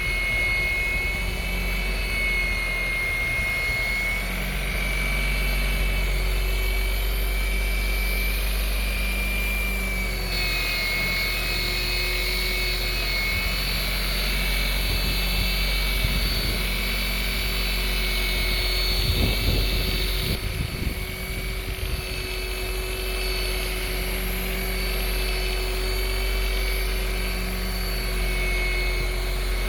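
DeWalt DWP849X rotary buffer running steadily with a buffing pad, compounding oxidized boat gelcoat; its motor whine shifts a little in pitch as the pad is worked, with a brighter, higher whine from about ten to twenty seconds in.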